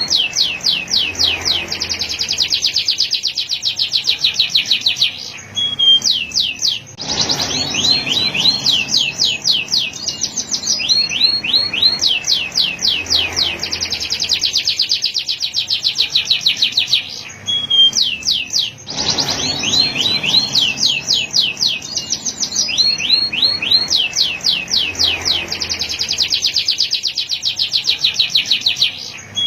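Male canary singing: long trilled phrases of rapidly repeated sweeping notes, with a short pause about every twelve seconds.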